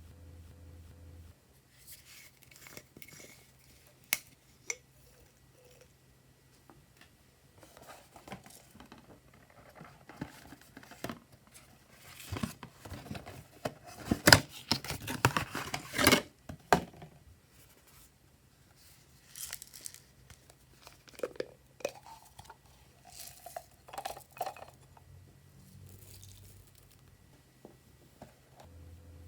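Glossy slime being worked by hand: sticky crackles, pops and tearing sounds as it is stretched and pressed, in scattered clicks with a dense, loud run of crackling around the middle.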